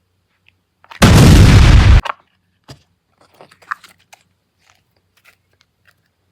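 Explosion-style sound effect: one loud, distorted blast about a second in, lasting about a second and stopping abruptly. A few faint clicks follow.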